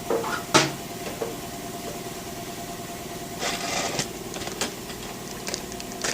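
Metal clanks and rattles of tools and engine parts being handled: one sharp knock about half a second in, a short clattering run past the middle, and a few light clicks near the end, over a steady machine hum.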